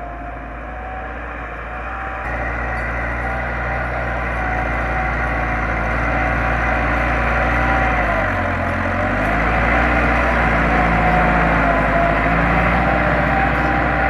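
Massey Ferguson 385 tractor's diesel engine running hard while pulling a cultivator, with a whine over the engine note. It gets louder about two seconds in, and its pitch dips briefly around eight seconds in as the engine lugs, then recovers.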